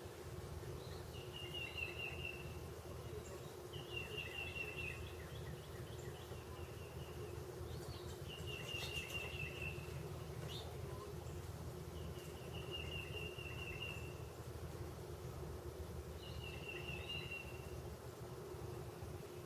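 A songbird repeating a short, fast trill, five times at intervals of a few seconds, over a steady low hum.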